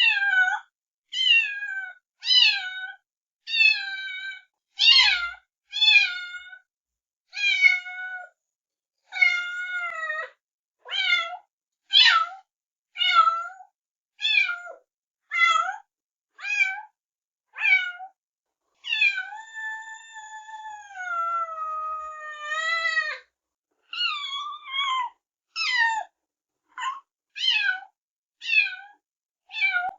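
Kitten meowing repeatedly: short, high-pitched meows about one a second, with one long drawn-out meow a little past the middle that drops in pitch as it ends.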